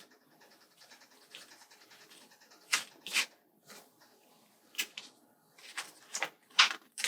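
Paper and sticker sheets being handled: short rustling and scraping strokes, a few at first and then several in quick succession in the second half.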